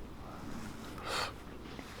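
A person's short, breathy sniff or exhale about a second in, over a low steady background.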